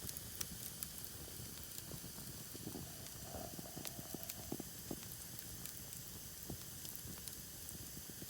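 Faint crackling of a wood campfire burning in a fire pit: a low hiss with scattered small pops and snaps.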